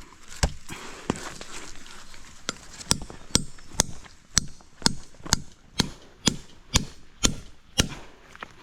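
A tool chopping with a run of sharp, evenly spaced strokes, about two a second: a couple of scattered strokes at first, then a steady rhythm that stops near the end.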